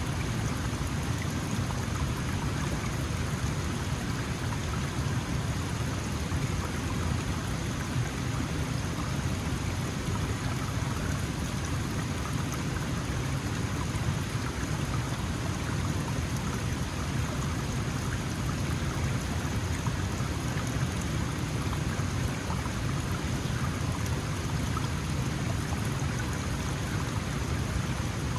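Small mountain stream flowing steadily over rocks: an even rushing and babbling with no breaks.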